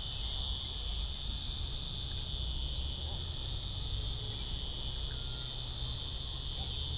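Steady, unbroken high-pitched trilling of an insect chorus, with a low rumble underneath.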